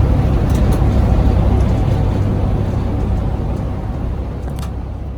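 Charter coach bus driving, a steady low engine and road rumble heard from inside the passenger cabin, fading out near the end.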